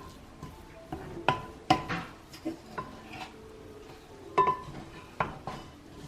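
A cooking utensil knocking and scraping against a pot as ground meat and seasonings are stirred together. It is a string of irregular clinks, several with a short ring, bunched about a second in and again near the end.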